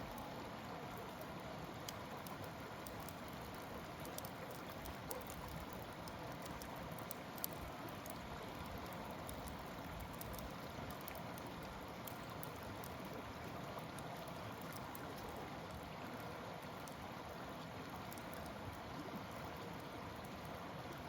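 Campfire burning with a steady hiss and scattered crackles, one sharper pop about seven seconds in.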